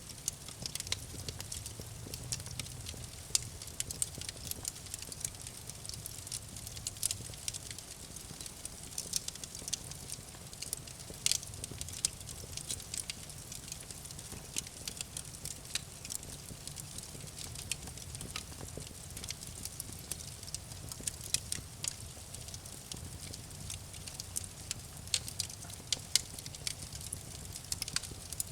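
Campfire burning with many irregular sharp crackles and pops over a soft low rumble of the flames.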